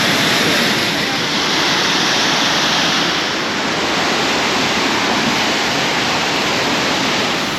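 Waterfall rushing steadily and loudly, an even roar of falling water.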